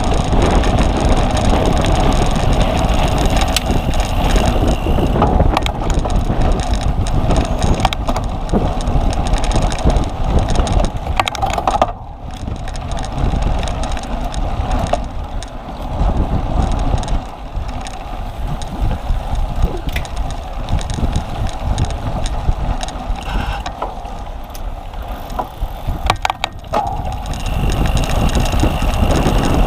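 A bicycle ridden hard over rough ground in a cyclocross race, with wind rushing on the microphone, a steady rumble of tyres and frame, and scattered rattling clicks and knocks from the bike. The noise eases briefly a few times, about twelve, seventeen and twenty-six seconds in.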